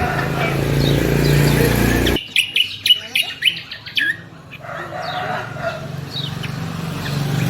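Songbird chirping. A quick run of sharp, high chirps stands out between about two and four seconds in. Fainter chirps sit over a steady background noise with a low hum, which drops away abruptly just before the run and returns after it.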